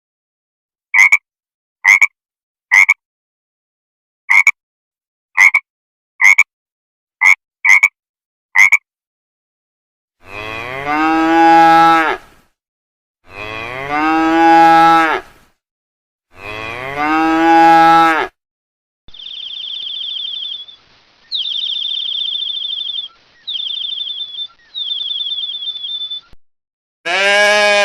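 A string of separate animal calls: about nine short croaks like a frog's, then three long cow moos, each about two seconds, rising and falling in pitch. Then comes a high, steady buzzing trill in four stretches, and another call starts just at the end.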